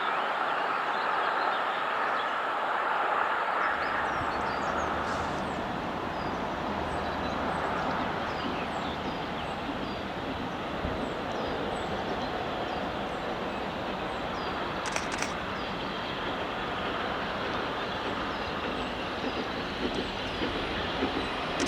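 Hunslet Austerity 0-6-0ST saddle-tank steam locomotive working along the line, a steady rushing sound with a low rumble joining about four seconds in. Birds chirp over it throughout.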